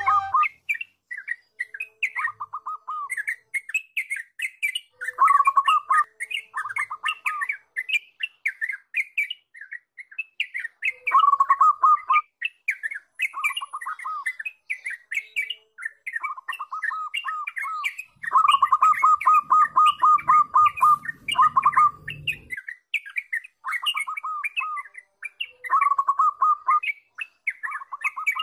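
Birds calling: a busy stream of short chirps with fast trills of repeated notes, recurring every few seconds. A low rumbling noise sits under the calls for a few seconds past the middle.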